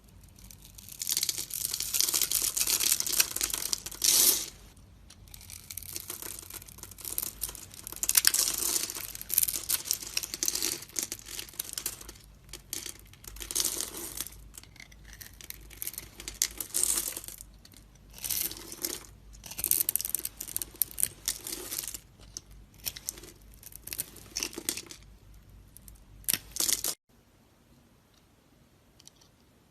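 A knife carving a bar of soap: crisp scraping, crumbling strokes that come in bursts of one to three seconds, a dozen or so in all, and stop about 27 seconds in.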